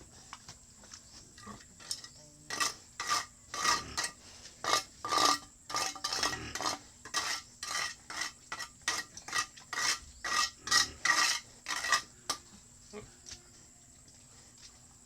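Repeated rough scraping or rasping strokes, about two a second, starting a couple of seconds in and stopping about twelve seconds in.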